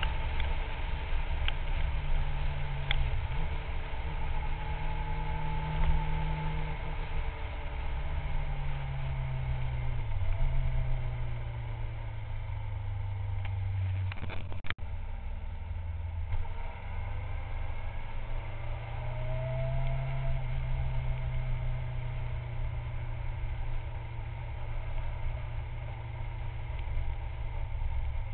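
Kawasaki 600 inline-four sport bike engine heard from a camera mounted on the bike while riding. The engine note steps up and down with throttle and gear changes, over steady wind and road noise. A single sharp knock comes about halfway through.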